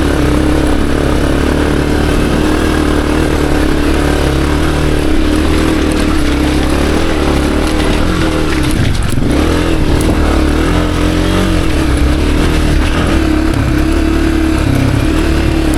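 Honda CRF250F dirt bike's single-cylinder four-stroke engine running steadily under load while climbing a rocky track. Its pitch dips briefly about nine seconds in, then picks back up.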